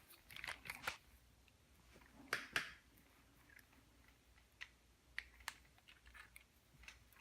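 Faint scattered clicks and rattles of a click-type torque wrench being handled and adjusted: a few quick clicks in the first second, a louder pair a little past two seconds, then a few isolated ticks.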